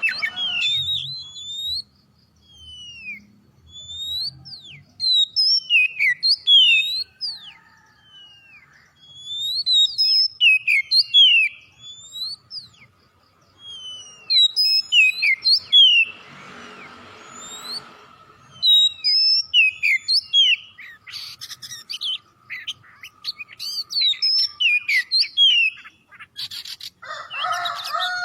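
Oriental magpie-robin singing a loud, varied song of quick sweeping whistles in phrases broken by short pauses. About halfway through there is a brief rush of noise.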